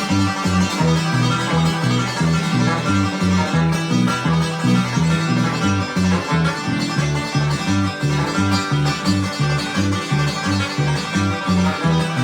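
Live acoustic bluegrass instrumental: a picked banjo with guitar, over a steady alternating bass line.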